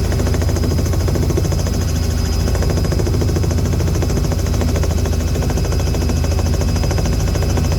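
Aircraft engine and propeller running steadily in flight: a loud, even, fast-pulsing drone with a thin high whine over it.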